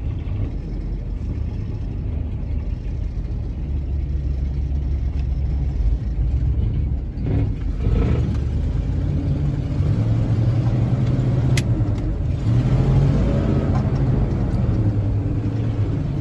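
Ford F800 grain truck's engine running as the truck drives, a steady low drone heard from the cab, its note shifting about halfway through as the engine changes speed. A single sharp click comes about three-quarters of the way in.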